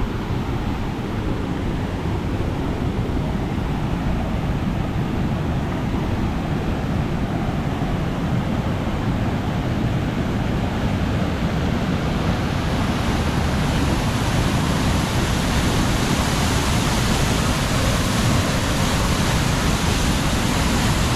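Illgen Falls' heavy rush of falling water, running high after a lot of rain. It is a steady noise that grows louder and brighter about halfway through as the falls come closer.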